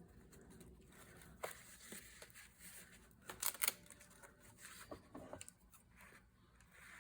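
Scissors cutting craft tape and paper: a few short, sharp snips with light handling noise, the loudest a quick pair of snips about halfway through.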